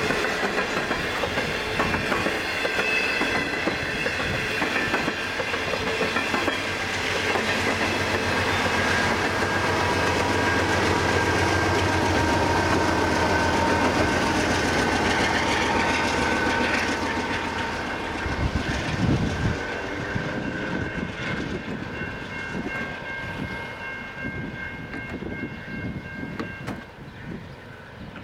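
Intermodal freight cars rolling past with a clickety-clack of wheels over the rail joints. About halfway through, the rear pushing locomotive, a GE C44-9W diesel, goes by with a low steady engine drone, and then the train's sound fades away, leaving a few steady high ringing tones near the end.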